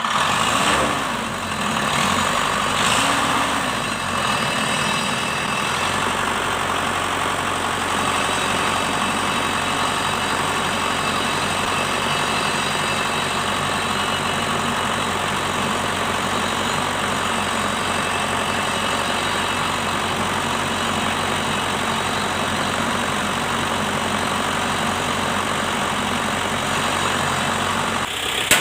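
Shibaura SD 4000 tractor's diesel engine running, revved a little in the first few seconds and then settling into a steady idle.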